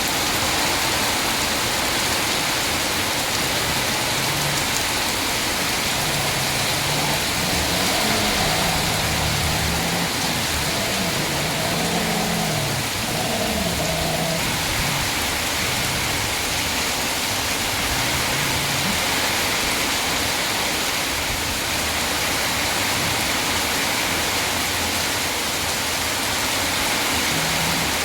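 Loud, steady rushing noise spread evenly across all pitches, starting abruptly, with a faint voice audible beneath it partway through.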